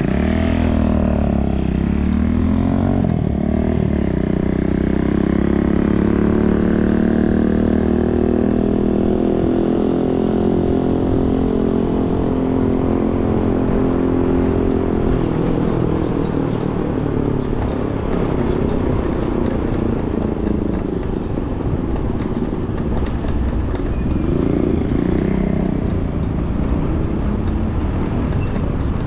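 Riding an electric bike along a city street: wind rushing over the microphone, mixed with pitched motor sound that glides up in the first few seconds, holds steady, then swells again near the end.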